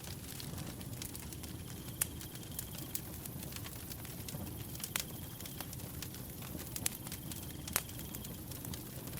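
Wood fire burning with a low steady rumble and scattered sharp crackles and pops, a few of them standing out louder. A faint high cricket trill comes and goes every couple of seconds.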